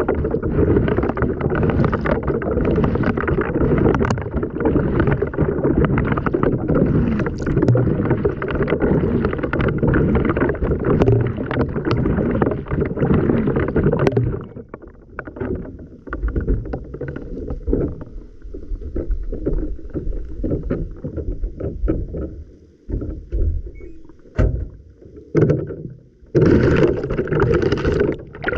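Water churning and sloshing in an LG washing machine drum, heard from a camera tumbling inside it, with many sharp knocks against it. About halfway through the churning drops away to scattered splashes and knocks as the drum pauses, then starts up loud again near the end.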